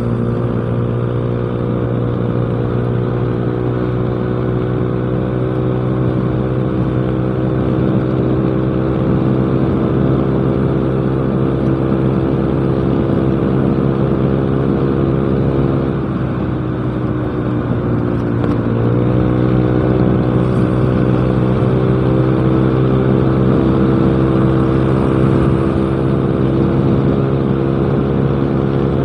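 Yamaha Mio Smile scooter's engine running through a cheap aftermarket exhaust (knalpot) at a steady riding speed. About two-thirds of the way in, its pitch sags and then picks up again.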